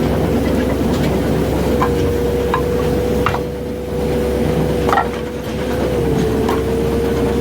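Japa 435 firewood processor running on its 50 hp Kubota diesel engine: a steady engine drone with a constant whine, broken by occasional sharp knocks a second or two apart.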